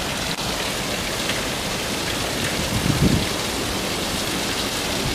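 Wind blowing across the microphone: a steady rushing hiss, with a brief low buffet about three seconds in.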